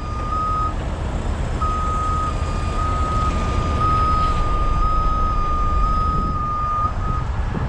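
Backup alarm of a heavy vehicle reversing, a single-pitched beep repeating about twice a second with a short pause about a second in, over a low diesel engine rumble.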